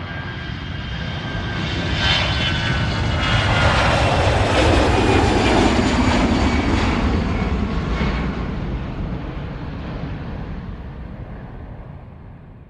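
An airplane flying past: engine noise swells to a peak about five seconds in, then fades away.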